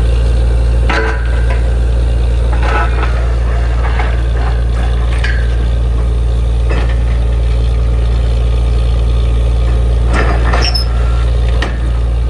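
Borewell drilling rig running with a loud, steady low drone, broken by scattered short metallic clanks and squeaks.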